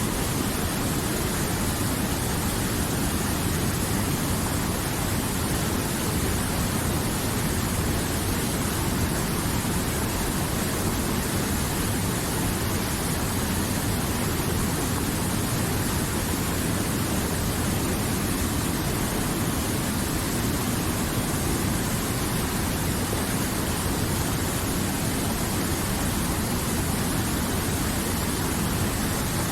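River water flowing in a steady, even rush, with no distinct splashes or changes.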